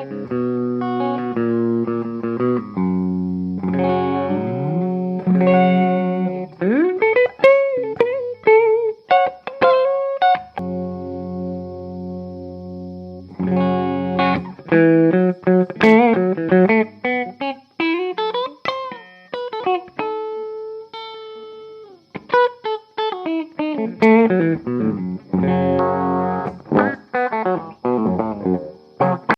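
Electric guitar played through a compact valve power amp built around one EF95 (6J1) mini-pentode tube, lightly overdriven. Strummed chords open, then lead phrases with string bends, a held ringing chord in the middle, and more bent-note lines near the end.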